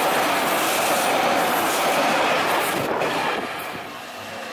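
JR Shikoku 8000 series electric express train passing close at speed: a dense, loud rush of wheels and cars on the rails. About three seconds in the sound drops to a quieter, more distant train.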